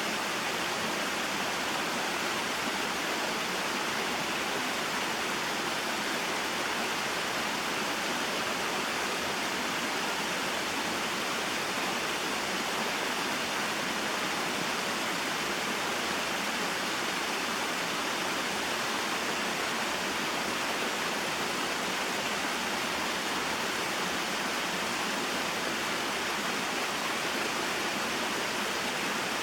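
Small waterfall and mountain stream flowing: a steady, even rush of falling and running water that does not change.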